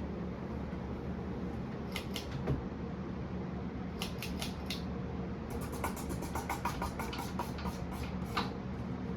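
1982 Casablanca Victorian ceiling fan coasting down after being switched off, over a steady low hum. A few sharp clicks come about two and four seconds in, then a quick run of light clicks lasting about three seconds.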